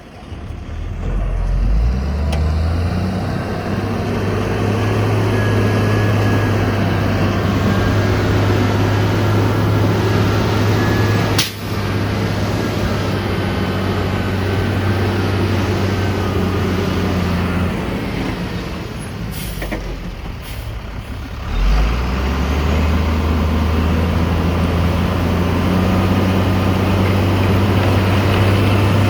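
Heavy diesel engine revving up and then running hard under steady load, easing off for a few seconds and revving up again near the end. A single brief sharp sound cuts in about eleven seconds in.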